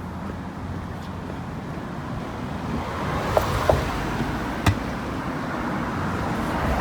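Road traffic noise, a steady rush that grows slowly louder, with a few sharp clicks in the middle.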